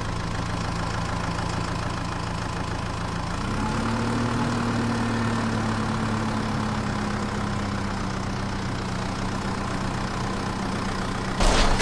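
Tractor engine running steadily, its pitch rising slightly about three and a half seconds in and then holding. A sudden loud noise breaks in right at the end.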